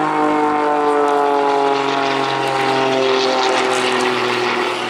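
Piston engine and propeller of a jet-assisted Pitts Special aerobatic biplane droning in flight. Its pitch slides slowly downward as it passes.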